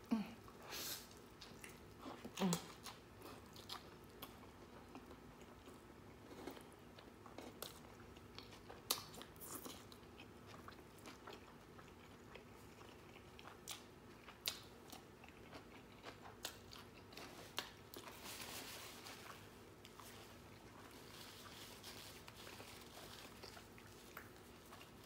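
Close-up eating sounds of a person biting and chewing a bacon cheeseburger: soft, wet chewing with scattered clicks and light crunches, and a couple of louder mouth sounds near the start.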